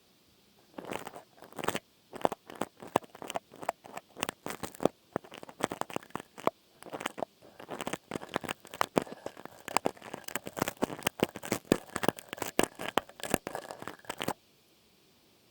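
Close-miked ASMR trigger sound: rapid, irregular crackling and crunching clicks that cut off suddenly near the end.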